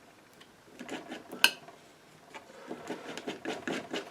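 A palette knife scraping and tapping on a palette as paint is mixed, with a sharp click about one and a half seconds in and quick repeated scrapes through the second half.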